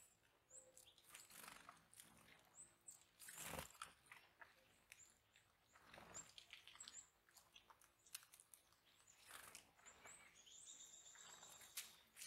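Faint crunching and cracking of seeds by birds feeding near the microphone, with brief high chirps scattered through and a longer, held high note near the end.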